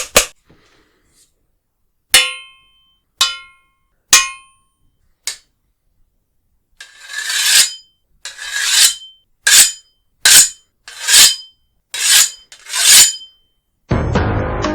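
A long metal ruler used to imitate a sword or knife. It opens with two handclaps, then gives four short metallic strikes that ring briefly, then a run of about eight scraping metal-on-metal slides like a blade being drawn. A louder low rumbling noise starts near the end.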